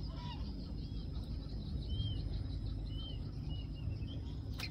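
A bird calling in short, arched high notes, roughly one a second, over a steady low background rumble; a single sharp click near the end.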